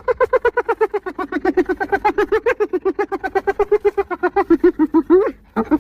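Spotted hyena giggling: a long, fast run of short pitched whoops, about eight a second, broken by a brief pause near the end before it starts again.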